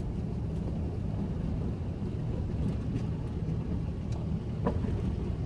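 Steady low rumble of a running vehicle, engine and road noise.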